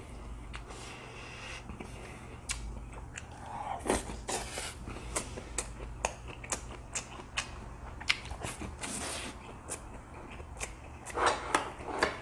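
Close-up chewing and biting of food, spicy stir-fried pork and a rolled omelette, with many short sharp mouth clicks from about four seconds in.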